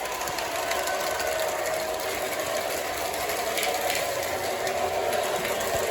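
O gauge Santa Fe RS diesel locomotive (Lionchief Plus 2.0) running on three-rail track: a steady mechanical clatter of its motor and wheels, mixed with its onboard diesel-engine sound effects.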